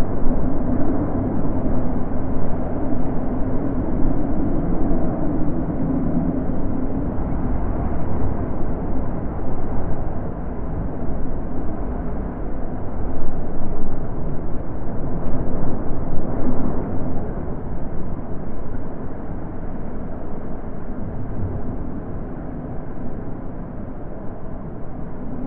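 Wind blowing in gusts: a deep, steady rush with no high hiss, swelling and easing every few seconds, with the strongest gusts about halfway through.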